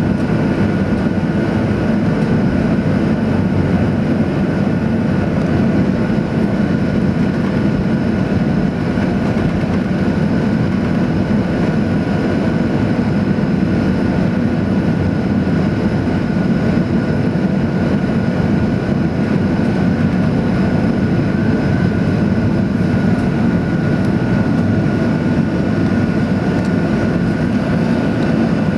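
Engine noise heard inside the cabin of a Boeing 737-800 as its CFM56 turbofan engines run: a steady, loud rush with a high whine held at one pitch.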